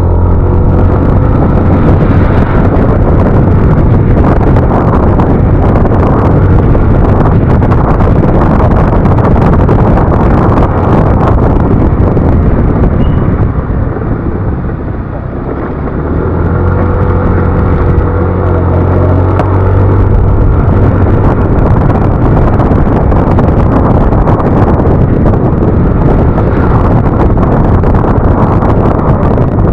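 Yamaha NMAX scooter riding at speed: a steady engine drone under heavy wind rush on the microphone, easing off briefly about halfway through and then picking up again.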